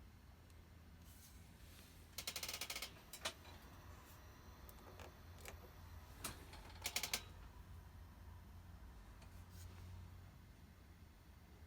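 Two short runs of rapid mechanical clicking, about two seconds in and again near seven seconds, with single sharp clicks between, over a steady low hum.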